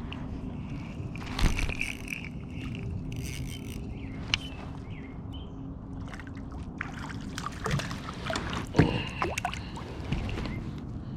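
Water sloshing and trickling against a kayak, with a few sharp knocks and splashes, the loudest about a second and a half in and again near the end.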